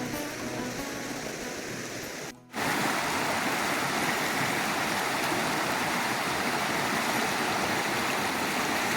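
Music fading out over rushing water for about two seconds, then after a brief cut a steady rush of a swollen creek at a waterfall.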